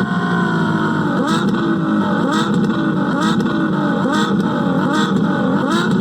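Ferrari F12 TDF's 6.3-litre V12 engine: its held note drops away at the start, then it is revved in short blips about once a second. Each blip rises and falls in pitch with a sharp pop.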